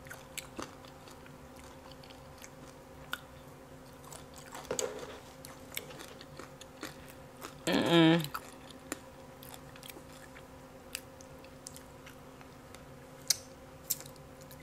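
Close-miked eating: chewing and small wet mouth and utensil clicks while eating deep-fried catfish, over a faint steady hum. About eight seconds in comes a short hummed "mm", the loudest sound.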